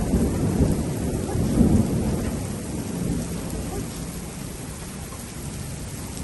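Thunder rumbling over steady rain, swelling again about a second and a half in and then fading away, leaving the rain.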